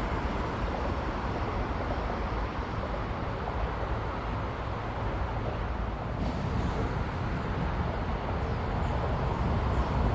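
High-speed train running past, a steady rushing rumble that grows slightly louder near the end.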